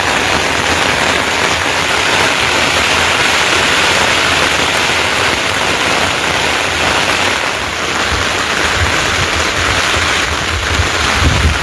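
Heavy rain falling steadily, with some low rumbling in the last few seconds.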